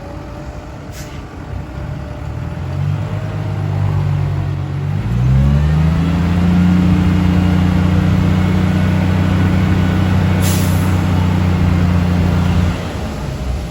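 Ten-wheel dump truck's diesel engine revving up about five seconds in and holding steady at higher revs, then easing off near the end. Two short air hisses, a faint one about a second in and a louder one later.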